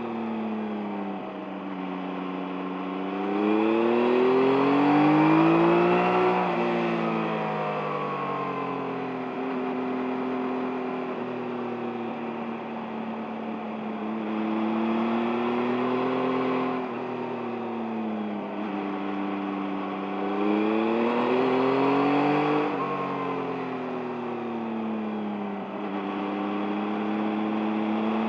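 2023 Yamaha MT-09's inline three-cylinder engine running under way, recorded from the rider's seat. Its revs climb and fall back several times: three pulls up, each ending in a sharp drop, the loudest about five seconds in.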